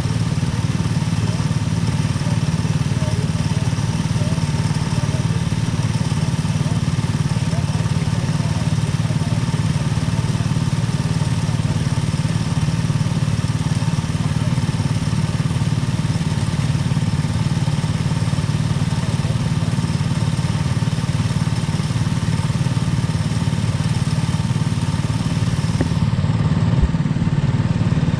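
Go-kart engine running steadily, with no clear rises or drops in pitch.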